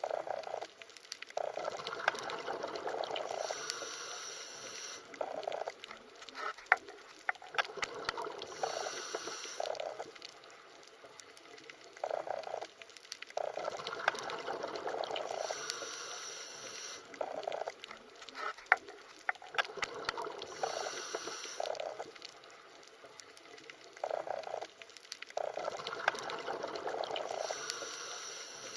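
Underwater water sounds: bubbling and gurgling that swell and fade every few seconds in a repeating pattern, with scattered sharp clicks.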